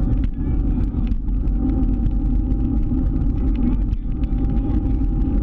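Scooter running at a steady pace on a ride, a constant low rumble with a thin steady whine above it.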